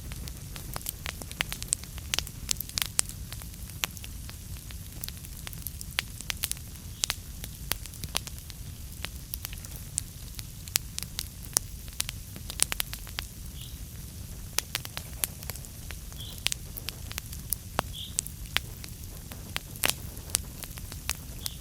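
Wood fire burning in a fireplace, crackling with many irregular sharp pops over a steady low rumble of flame. A few brief hisses come through in the second half.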